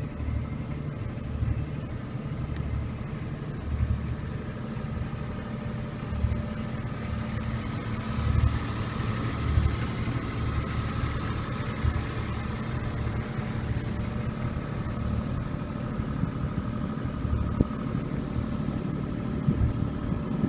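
Sailboat's inboard engine running steadily at low speed, a constant drone under an uneven low rumble.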